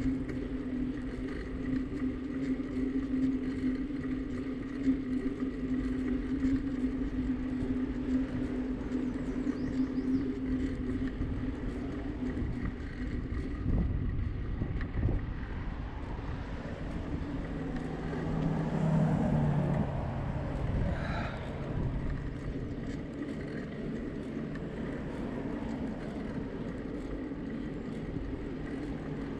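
Riding noise from a bicycle on the road, heard through an action camera: a steady hum through the first half, then a low rumble and a brief pitched sound that rises and falls past the middle.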